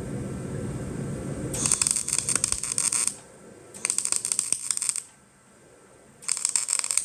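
Electric arc welding: the arc crackles and spatters in three short bursts of about a second and a half each, with pauses between them, after a low steady hum. The popping comes from running a very long arc.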